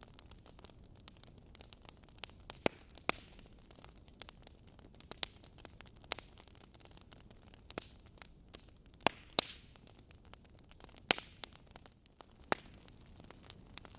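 Wood fire in a fireplace crackling: burning logs giving off irregular sharp pops and snaps over a soft steady hiss, with a few louder pops.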